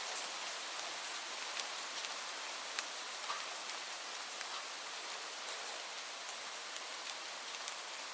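Steady rain falling on leaves: an even hiss with scattered individual drop ticks.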